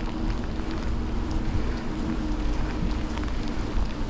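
Riding a bicycle on a wet road in the rain: a steady rumble and hiss of wind and tyres, with scattered light ticks of raindrops and a faint steady low hum.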